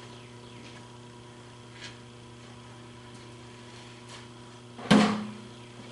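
Steady electrical hum, with one sharp knock and a brief ring near the end.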